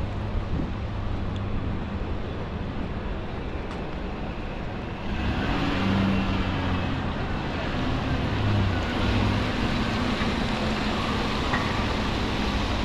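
Traffic on a wet city street: vehicle engines running low and steady, with a louder hiss joining about five seconds in and staying.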